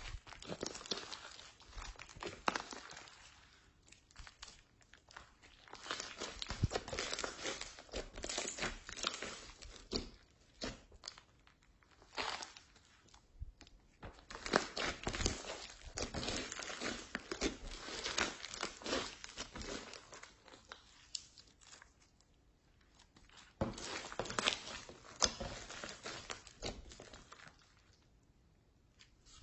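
Slime being mixed and squished by hand: a dense crackling and squelching of tiny pops in stretches of several seconds, with short pauses between.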